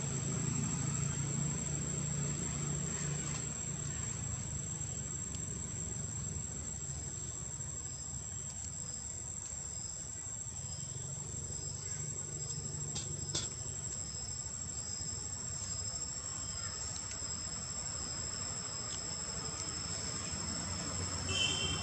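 Insects, crickets or cicadas, trilling steadily at a high pitch, with a second wavering trill joining about a third of the way in, over a low background rumble.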